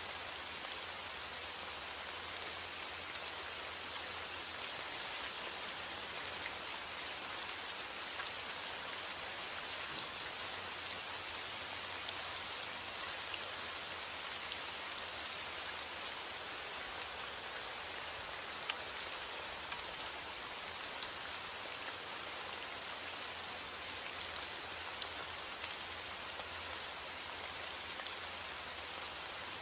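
Steady rain falling, a dense even hiss with the fine ticks of many drops hitting a surface.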